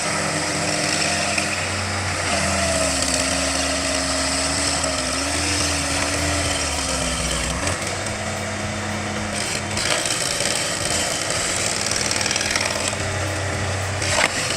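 Engine-driven machinery running steadily, its engine note wavering and then shifting about halfway through, over a constant mechanical clatter.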